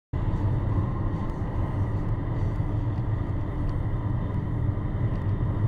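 Steady low rumble of a moving car as picked up by a dashcam, cutting in abruptly just after the start.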